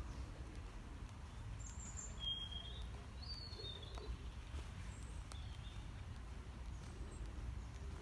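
A few short bird chirps, between about two and four seconds in, over steady low outdoor background noise.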